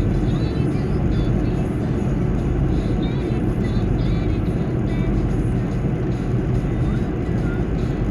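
Steady road and tyre noise of a car driving at speed, heard from inside the cabin, with a car radio playing music faintly over it.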